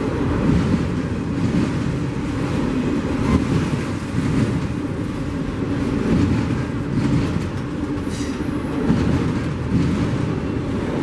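Train rolling past on the rails, a steady rumble of wheels with wind buffeting the microphone.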